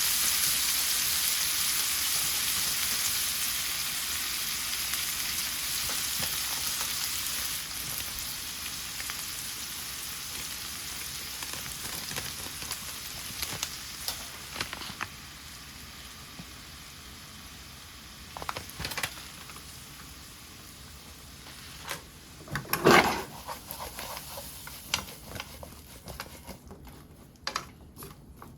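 Bitter gourd and pork belly sizzling as they stir-fry in sesame oil in a pan. The sizzle slowly dies down, with scattered knocks, the loudest about two-thirds of the way through, and light ticks near the end.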